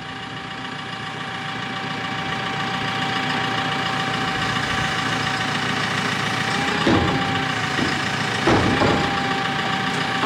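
Engine of the lifting machine running steadily under a steady high whine, gradually getting louder while the load is moved; a few short knocks near the end.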